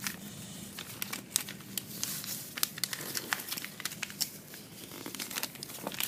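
A sheet of paper being handled and folded into a paper airplane: crinkling and crackling with many sharp little clicks as it is bent and creased.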